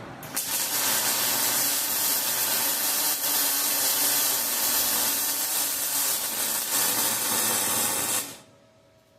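A loud, steady, rasping hiss from metalwork on the chute repair, starting just after the beginning and cutting off suddenly about eight seconds in.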